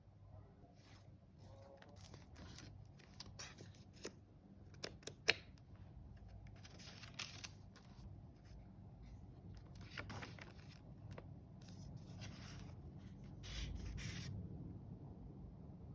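Paper pages of a handmade junk journal being handled and turned: rustling swells of paper with a few sharp ticks and taps about four to five seconds in.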